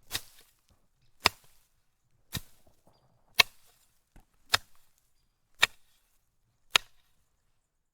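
Seven sharp cracks, one about every second at an even pace, each ending quickly.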